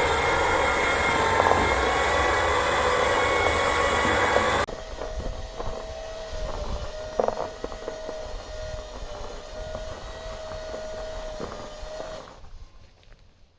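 Vehicle engine running loud and steady during the ditch recovery pull, cutting off abruptly about four and a half seconds in. After that, a quieter steady whine with a few knocks, fading out near the end.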